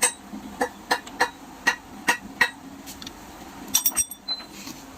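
Sharp metal-on-metal taps and clinks from hand tools worked on motorcycle engine parts during assembly. There are about eight irregular strikes in the first two and a half seconds, then a quick cluster of ringing clinks about four seconds in.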